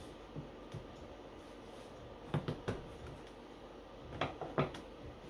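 Sharp wooden knocks and taps from beehive frame parts being assembled: two faint taps in the first second, then two quick clusters of about three knocks each, a little under two seconds apart.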